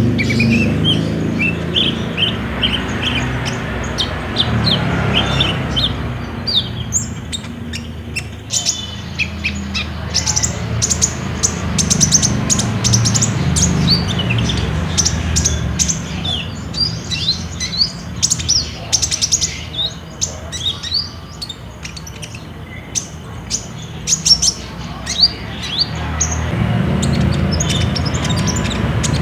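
Kolibri ninja sunbird singing: a fast run of high, sharp chirps and short trills, coming in dense bursts, over a steady low hum.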